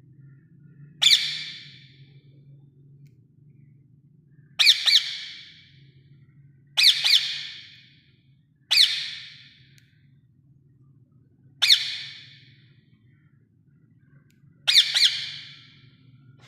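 Green ring-necked parakeet giving six loud, harsh squawks a few seconds apart, several of them doubled, each starting sharply and trailing off.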